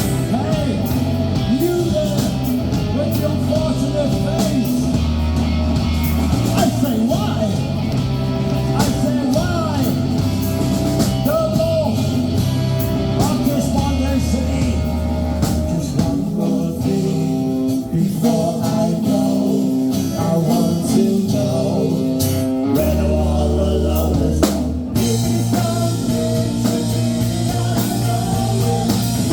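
Rock band playing: electric guitar, bass and drum kit with a singing voice. The bass pattern shifts briefly about three-quarters of the way through.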